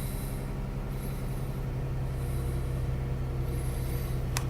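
Dodge Journey engine idling steadily just after a cold start.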